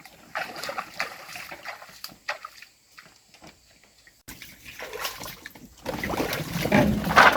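Water splashing and sloshing in irregular bursts, getting louder from about six seconds in.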